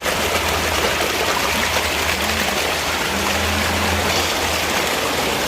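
Steady rush of running water, its loudness hardly changing.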